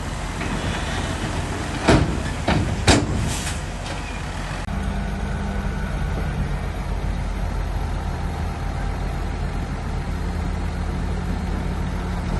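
Heavy diesel earthmoving machinery running steadily, with three sharp metallic clanks about two to three seconds in.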